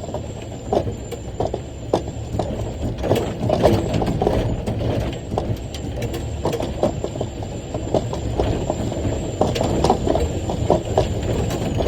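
Heavy rock haul truck's diesel engine labouring up a hill at full throttle, a steady low drone, with constant rattling and clunking knocks throughout.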